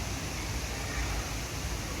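Steady rushing of running water, an even hiss with a low rumble underneath.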